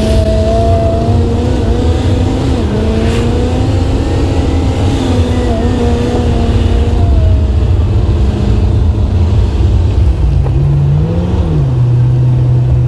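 Salt truck's engine running as it drives slowly while spreading salt, with the spreader's spinner and auger going. A steady drone with tones that drift a little in pitch, dropping lower and wavering about ten seconds in.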